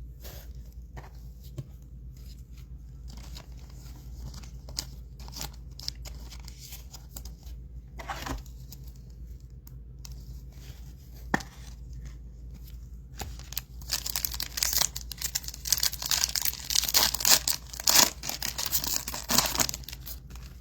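A trading-card pack wrapper being torn open and crinkled, after scattered light rustles and clicks of cards being handled; the tearing and crinkling is loudest and densest over the last several seconds.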